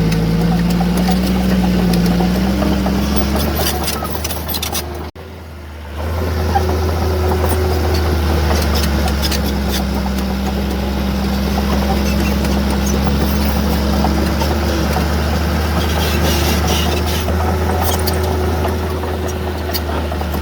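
Heavy diesel engine of earthmoving machinery running, its pitch rising and falling with load, with scattered short metallic clicks. The sound drops away briefly about five seconds in, then picks up again.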